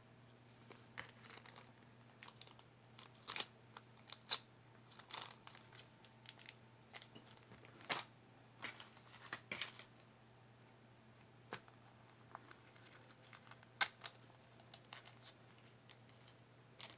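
Small jewelry being handled and put away: scattered light clicks and taps with a few crinkling rustles, faint, over a low steady hum.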